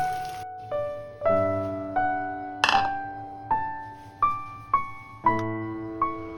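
Gentle solo piano music, single notes and soft chords struck every half second to a second and left to ring out. A rain-like hiss cuts off about half a second in, and a short sharp clatter sounds about two and a half seconds in.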